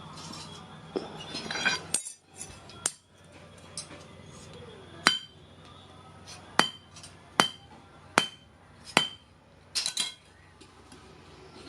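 Hand hammer striking steel, about a dozen blows at an even pace of roughly one every 0.8 s, each with a short metallic ring: smithing work on leaf-spring steel.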